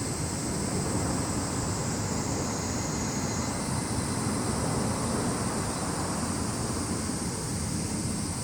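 Continuous high-pitched shrilling of summer insects, cicadas and crickets, its pitch dipping slightly about two seconds in and stepping back up about three and a half seconds in, over a low steady rumble.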